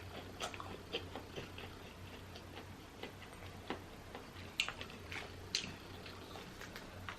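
Faint, irregular small clicks and crackles of seafood shells being handled and peeled while eating, a few sharper snaps among them.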